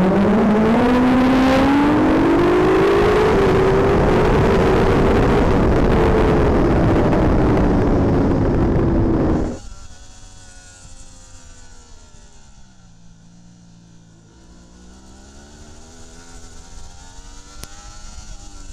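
Racing superbike heard from an onboard camera at full speed: the engine note climbs and falls with the throttle under heavy wind rush. About halfway through it cuts off abruptly to a much quieter engine note that dips and then rises again.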